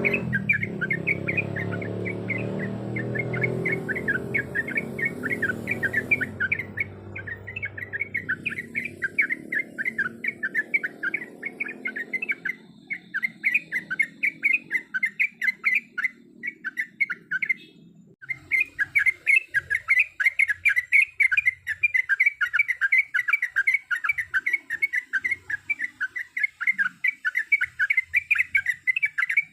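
Yellow-vented bulbul (trucuk) calling in a fast, unbroken run of short repeated chirps, several a second, pausing briefly about two-thirds of the way through. A low hum underneath fades out partway through.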